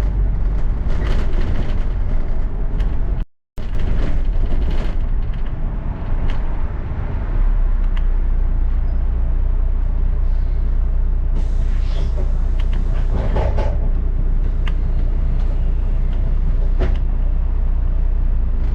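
Steady low engine and road rumble heard from inside a London double-decker bus, with scattered rattles and clicks. A stretch of hiss rises about eleven seconds in and fades out after several seconds. The sound cuts out completely for a moment about three seconds in.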